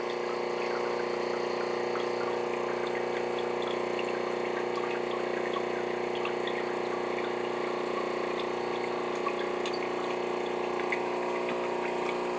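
Espresso machine's pump running steadily as it brews, a constant hum with water flowing through, with a few faint ticks scattered through it.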